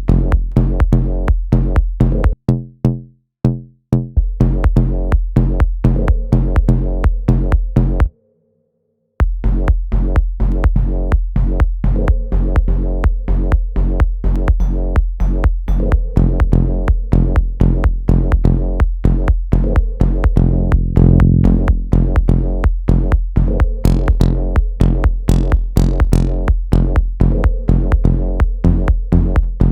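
Electronic dance track played back from a music production session: a steady drum-machine beat over a sustained bass line. The beat stutters in chopped fragments about three seconds in, and the playback cuts out for about a second near eight seconds before starting again.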